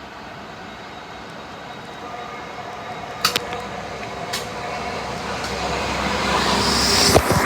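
A train approaching through the station, its running noise and faint steady whine growing steadily louder, with a few sharp clicks about three, four and seven seconds in.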